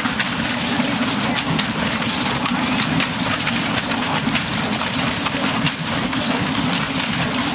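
A car engine idling steadily, with a crackly noise over it.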